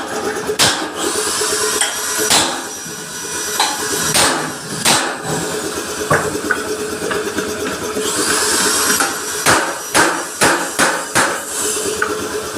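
Hammer blows on a truck's metal front bumper during dent repair: a dozen or so sharp, irregular strikes, some in quick runs near the end, over a steady hum.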